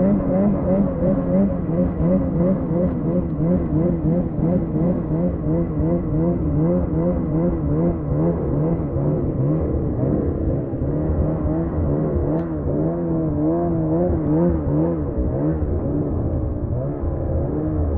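850 turbo two-stroke snowmobile engine running hard under the load of a rope tow. It holds high revs while the pitch wobbles up and down about twice a second.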